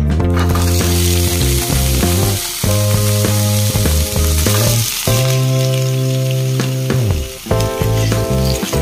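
Pork pieces sizzling in a hot nonstick pan, the hiss setting in just after they are dropped in, while a spatula stirs them. Background music with held notes plays along.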